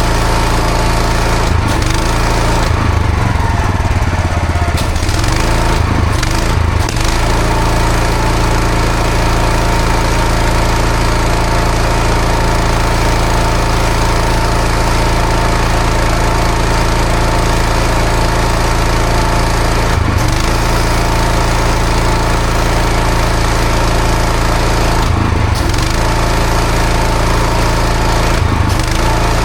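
Pressure washer running steadily, its engine droning under the hiss of a high-pressure water jet on block paving, with a few brief changes in the spray.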